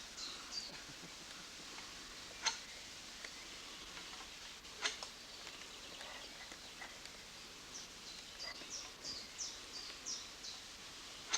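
Small birds calling with short, high, falling chirps, in a cluster at the start and again around eight to ten seconds in, over a faint outdoor hiss. Two sharp knocks stand out, about two and a half and five seconds in.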